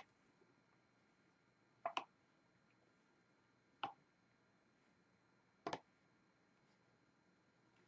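Diamond painting pen tapping resin drills onto the adhesive canvas: three sharp clicks about two seconds apart, the first and last doubled.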